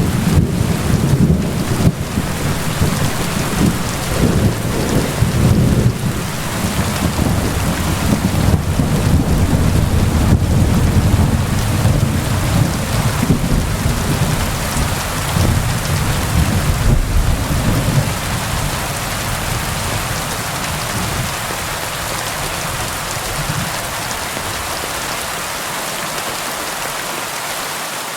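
Rain falling steadily on a tin roof under a long, loud roll of thunder. The rumble fades out about two-thirds of the way through, leaving only the rain.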